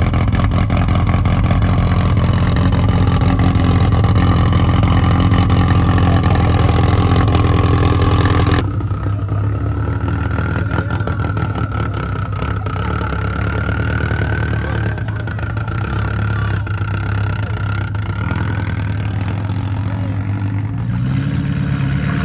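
Car engine idling with a steady low note. The sound changes abruptly about eight and a half seconds in; after that a high wavering tone sits over the idle for several seconds, and near the end the engine is revved up briefly and drops back.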